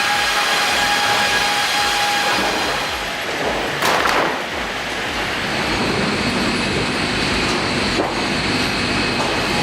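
Heavy wood-processing machinery running steadily with a whine, with a brief loud burst of noise about four seconds in.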